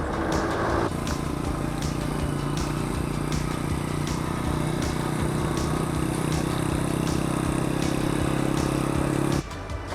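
A motor vehicle's engine running steadily at an even pitch, with low wind rumble on the microphone. It starts about a second in and stops abruptly near the end.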